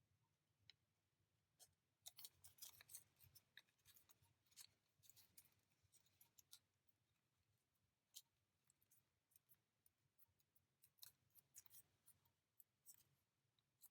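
Faint, scattered crinkles and crisp ticks of a square sheet of origami paper being creased and folded by hand, with denser flurries of crackling a couple of seconds in and again near the end.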